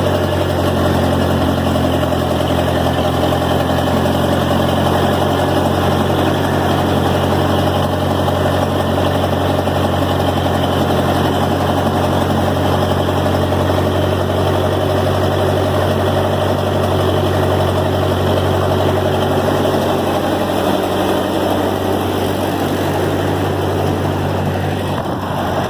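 Ferguson TO-20 tractor's four-cylinder gasoline engine idling steadily, warming up after a cold start.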